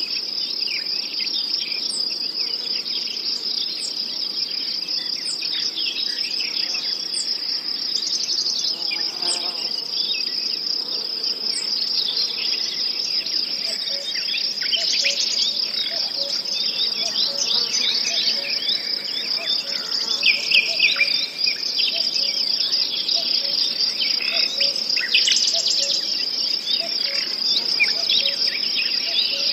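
Insects trilling in a steady high chorus, with many short bird chirps and calls scattered over it.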